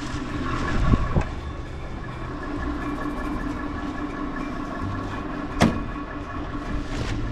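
Steady running hum of a Scania vehicle, with a few steady whine tones over it. There is a click about a second in and a sharp knock about five and a half seconds in.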